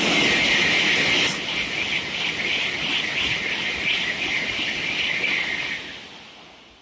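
Tokaido Shinkansen train passing through the station at high speed: a loud rushing roar that builds, holds with a rapid pulsing beat for about six seconds as the cars go by, then fades away quickly near the end.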